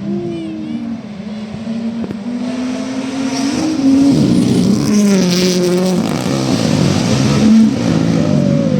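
A rally car's engine revving hard as it comes through, its pitch climbing and dropping back at each gear change. It grows loud about halfway through, with a rushing noise as it passes.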